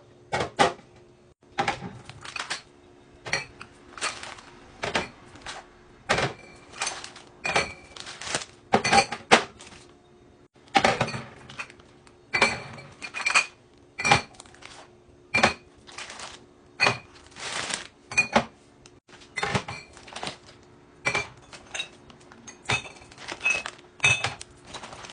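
Containers, jars and dishes clattering and knocking as they are set down and moved about in a refrigerator, about one knock a second, over a faint steady hum.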